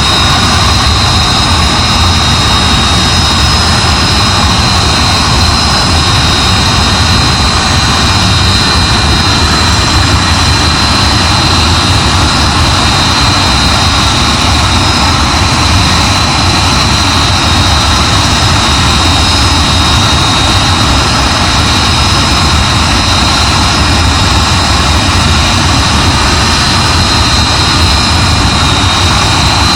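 Hawker Hunter's turbojet engine running steadily on the ground: a loud, even roar with a steady high-pitched whine over it.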